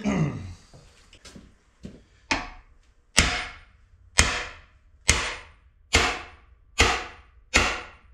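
Hammer blows on a steel driver, knocking an old bearing down out of a CAT D4D engine block's bearing bore: seven sharp, ringing metal strikes at a steady pace of about one a second, the first one lighter.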